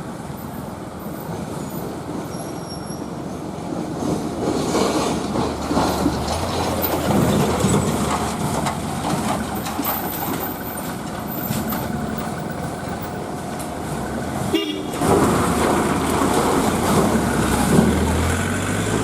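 Mini cargo truck engines running and revving in traffic on a waterlogged road, with road and water noise and a horn toot. The sound drops out for a moment about three quarters of the way through, then resumes.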